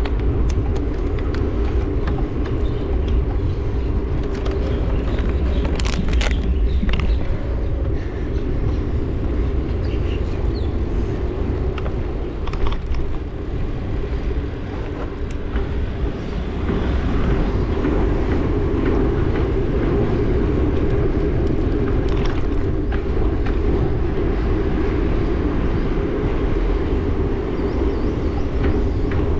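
Steady vehicle and road noise heard while riding a bike through traffic, with a deep continuous rumble and a few short clicks about six seconds in and again around twelve seconds.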